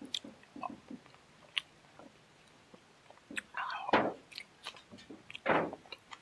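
A person chewing and biting fried meat close to the microphone: scattered small mouth clicks and crunches, with two louder, longer sounds about four and five and a half seconds in.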